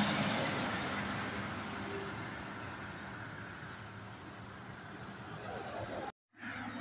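A truck that has just passed close by pulls away, its engine and tyre noise fading steadily. The sound cuts out for a moment near the end.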